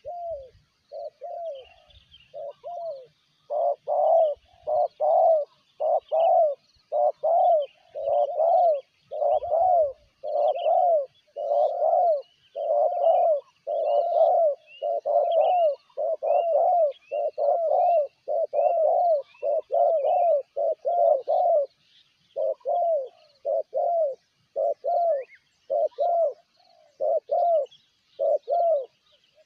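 Spotted dove cooing: a long run of short coo notes, close to two a second, growing louder a few seconds in and spacing out a little near the end. Faint high chirps of small birds sound in the background.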